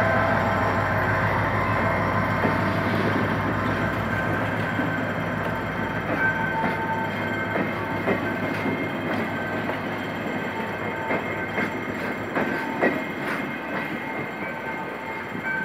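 GM GT-22 CW-2 diesel-electric locomotive pulling a passenger train away, its engine drone fading over the first few seconds. The coaches then roll past close by, their wheels clicking over rail joints, with faint wheel squeals.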